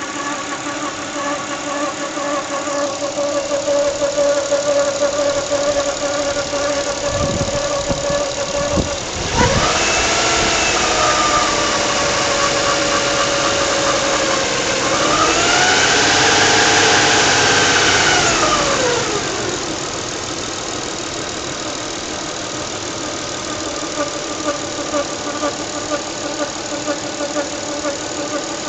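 1996 Nissan Stagea's RB25DE 2.5-litre straight-six idling with a rhythmic whine whose cause is not yet known. It is blipped briefly about ten seconds in and revved again for a few seconds in the middle, the pitch rising and falling each time, then settles back to idle.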